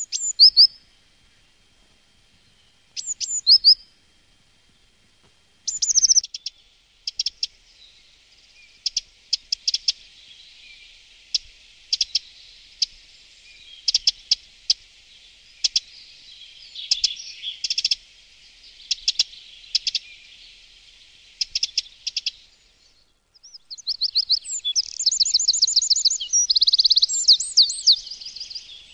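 Wild songbirds singing: two short, high, falling song phrases near the start, then a run of quick sharp chirps, and near the end a fast, dense trill.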